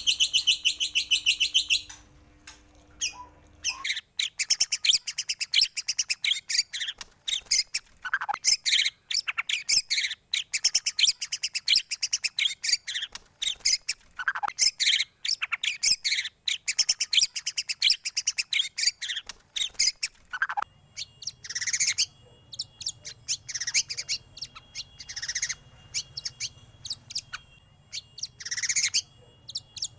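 White-rumped shama (murai batu) singing a fast, varied stream of chirps, whistles and trills, with a short pause about two to four seconds in. From about two-thirds of the way in, a faint steady high tone and a low hum sit under the song.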